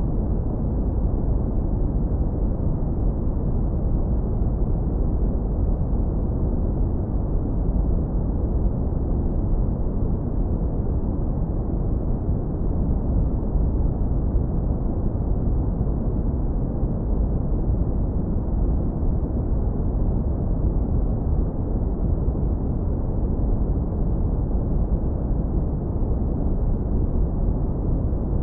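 Steady synthetic brown noise, low-pass filtered into a deep, warm rumble with almost nothing above the low end and no changes in level.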